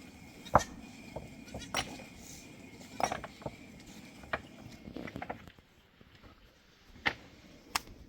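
A series of sharp, irregular knocks and clicks, the loudest a little after half a second in.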